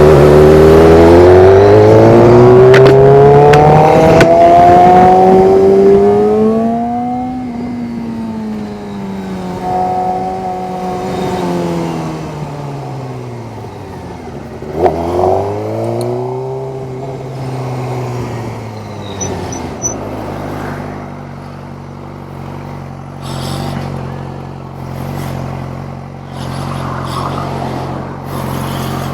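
Suzuki GSX-R's inline-four engine pulling hard with its pitch climbing for about six seconds, then winding down as the bike slows. There is a quick sharp rev about halfway, another slowdown, and then a steady idle for the last third.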